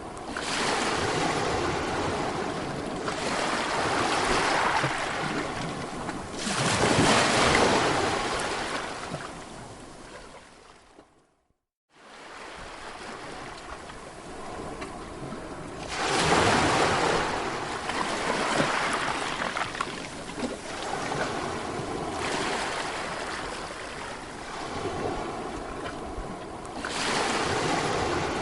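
Sea waves breaking and washing up the shore in slow surges, each swell rising and then draining away. About eleven seconds in, the sound fades almost to silence, then comes back suddenly.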